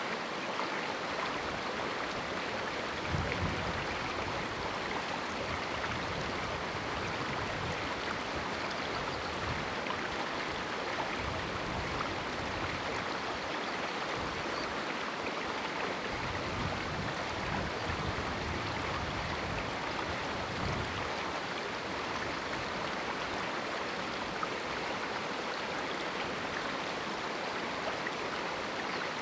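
Small river rushing steadily through a rocky canyon: continuous running water.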